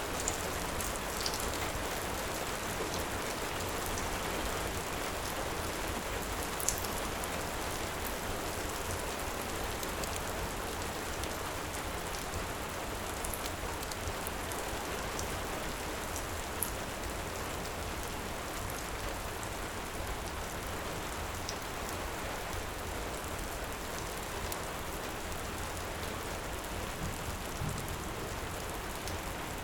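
Heavy rain falling steadily, with a few sharp crackles from a wood fire now and then.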